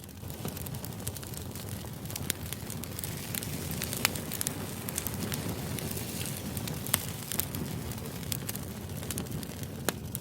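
Steady background noise with scattered sharp crackles and pops, a white-noise track of a crackling fire.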